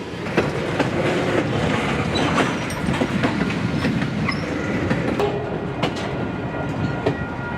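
A string of freight cars rolling past on the rails, with a steady rumble and the click of wheels over the rail joints. A faint high wheel squeal comes in during the second half.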